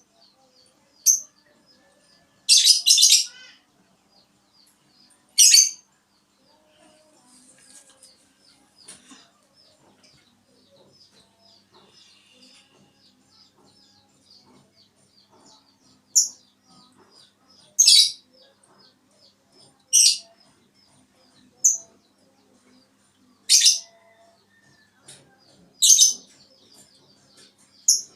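A small bird giving loud, sharp, high chirps, singly every few seconds, with a longer chirping burst near the start. A faint, fast run of soft high ticks continues underneath.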